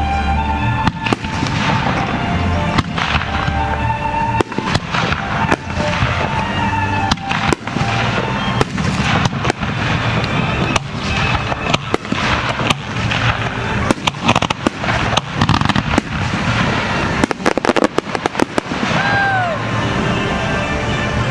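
Starmine firework display: a rapid, continuous barrage of shell bursts and crackles, with a dense cluster of reports about three-quarters of the way through.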